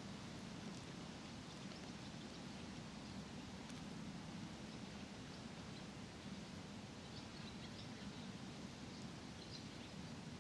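Faint park ambience: a steady low rumble of distant traffic under an even hiss, with a few faint, short small-bird chirps about two-thirds of the way in and again near the end.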